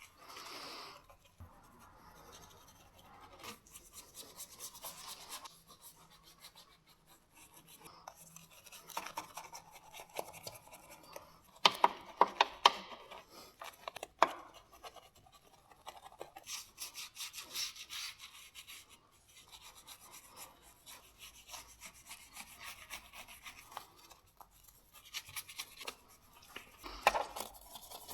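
Hand scrubbing of a car surface in quick repeated strokes, like a detailing brush working on dirt, with a few sharp clicks about twelve to fourteen seconds in.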